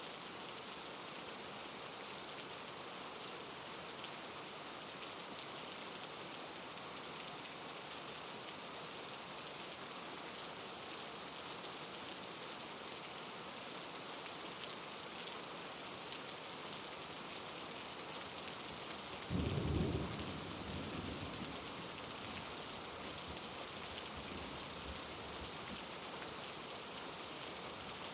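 Steady rain falling. About two-thirds of the way through comes a brief thunderclap that fades within a second or two.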